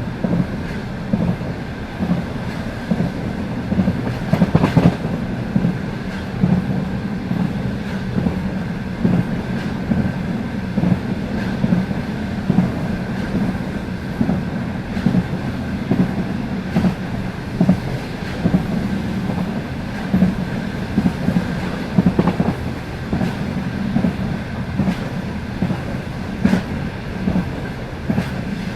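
Passenger train carriage wheels clattering over rail joints at speed: a repeated clickety-clack every second or two over a steady low rumble, with a faint steady high hum.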